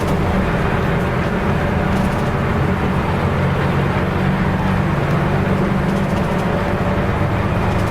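Nissan Diesel U-UA440LSN city bus's diesel engine running steadily while under way, heard from inside the bus, with road noise underneath.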